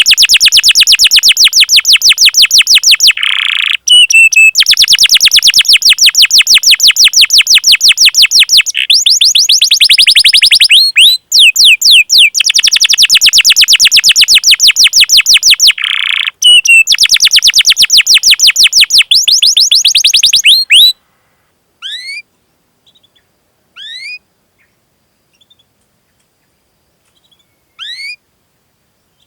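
Domestic canary singing fast rolling trills of rapidly repeated high 'cuit' chirps in long loud runs broken by short pauses. After about twenty seconds the trilling stops, leaving a few single rising chirps a couple of seconds apart.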